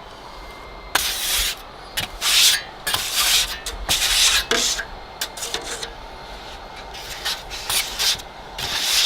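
Trowel scraping thinned drywall joint compound across a wall in a series of short strokes, starting about a second in, laying on a hand texture.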